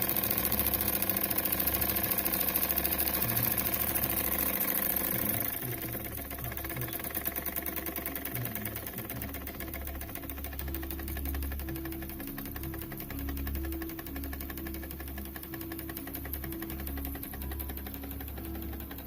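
Jensen Model #10 toy steam engine running with a fast, even mechanical beat. About five and a half seconds in it turns quieter and carries on.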